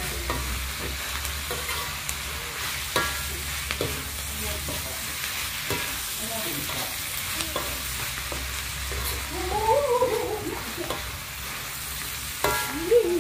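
Pork belly, salted radish and spring onions sizzling as they are stir-fried in a steel wok on a portable gas stove, with the stirring utensil knocking and scraping against the wok now and then. A short wavering call rises and falls in the background about three-quarters of the way through, and briefly again near the end.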